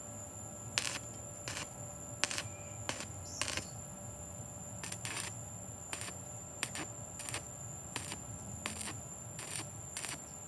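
Irregular small clicks and taps, roughly one or two a second, of hard small parts being handled, over a faint steady high tone.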